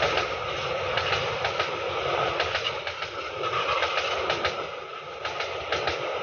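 Train passing, its wheels running over the rails with a steady rumble and many sharp, irregular clicks from the rail joints.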